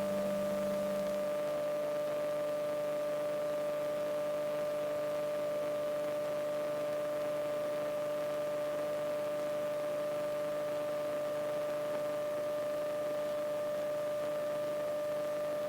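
Steady electrical hum of several pitched tones over faint hiss, carried on a wired radio-and-intercom audio feed that shuts out most engine and wind noise. A lower tone drops out about a second in.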